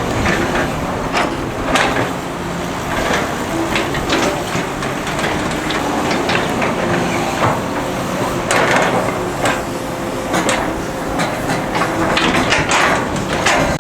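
Hydraulic excavator's diesel engine running steadily, with irregular sharp metal clanks and knocks from the machine at work. The knocking is densest about two-thirds of the way in and again near the end.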